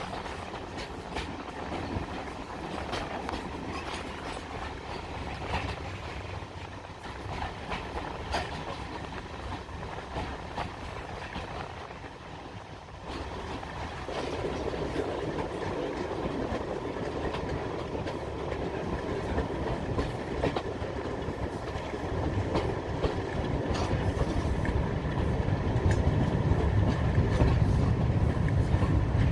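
Heritage diesel train running on the line, with clicks from the wheels over the rail joints; its rumble steps up about halfway through and grows louder toward the end as it draws nearer.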